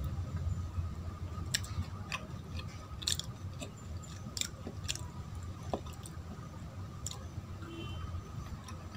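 Close-miked chewing of soft Indian sweets, with scattered sharp wet mouth clicks and smacks over a low steady rumble.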